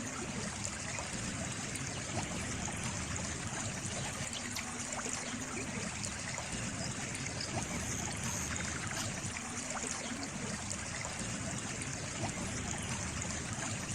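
Water trickling and splashing in a small stream, steady throughout, with a light patter of small splashes.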